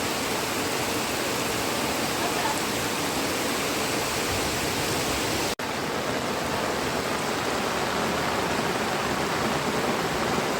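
Steady rushing noise of flowing floodwater, with a momentary dropout about halfway through before the rush resumes.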